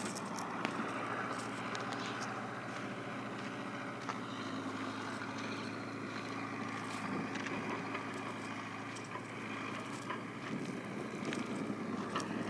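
A steady low engine hum with wind noise on the microphone and a few faint clicks.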